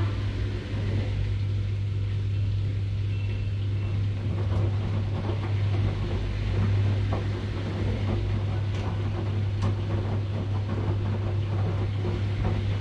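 Washing machine running: a steady low hum over a constant mechanical noise, with a few faint clicks.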